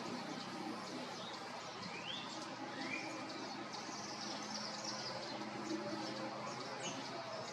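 Wild birds calling: a few short rising whistled notes and scattered high chirps over steady background noise.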